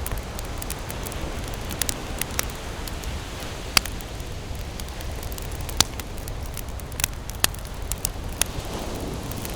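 Wood campfire burning with irregular sharp crackles and pops, a few louder snaps among them, over a steady low rumble.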